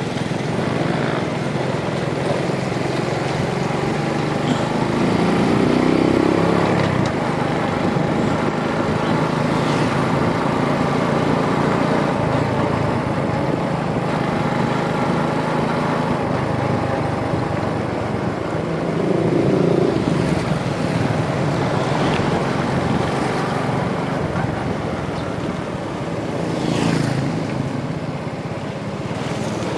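Rusi DL125 125 cc motorcycle engine running on the road, with engine speed rising and easing off several times along with wind and road noise.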